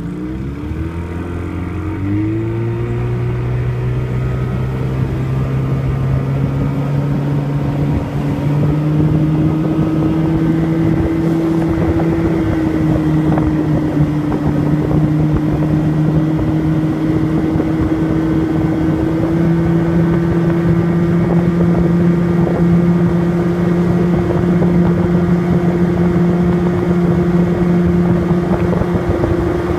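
1976 Evinrude 35 HP two-cylinder two-stroke outboard, running on a jon boat. It is opened up over the first few seconds, rising in pitch, then held at high rpm with a slight waver. The owner says it is missing at high rpm and running on one cylinder because of bad points and condensers.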